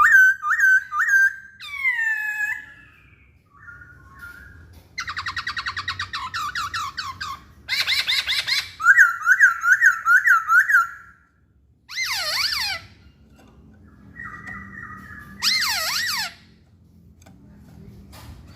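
Black-throated laughingthrush (poksay Hongkong) singing loud whistled phrases. The phrases are made of quick runs of repeated up-and-down notes, broken by short pauses.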